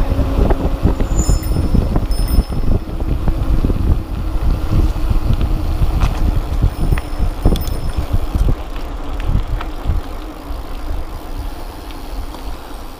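Wind buffeting the microphone and a mountain bike rattling and knocking over rough trail on a downhill run, with scattered sharp clacks. The noise eases over the last few seconds as the bike slows.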